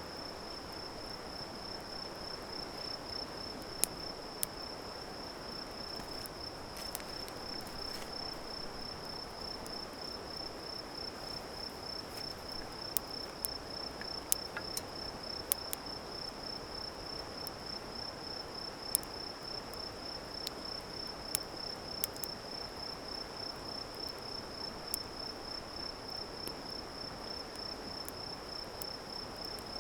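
A steady high-pitched insect trill running on without a break, with irregular sharp pops and crackles from a wood campfire scattered through it.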